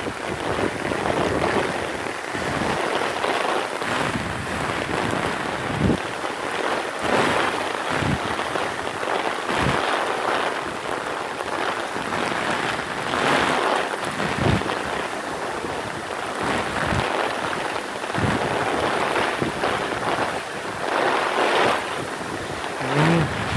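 Heavy downpour of rain falling steadily, with a few brief low thumps scattered through it.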